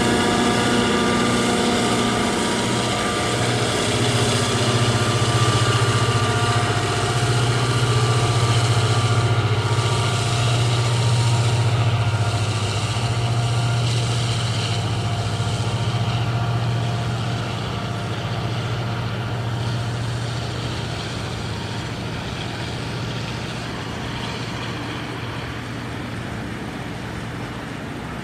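Railway locomotive running with a steady deep drone and several higher tones, slowly fading away over the last third.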